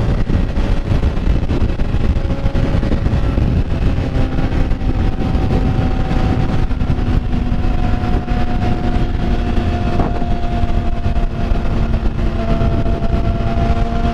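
Motorcycle on the move: heavy wind rushing over the microphone, with the engine's steady hum underneath. Its pitch shifts a few seconds in and again near the end.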